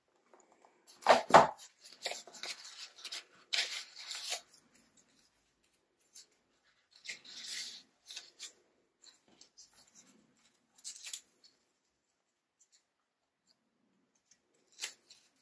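Hands handling paper craft labels: sheets rustling and shuffling in short irregular bursts, with a single knock about a second in and scattered small taps.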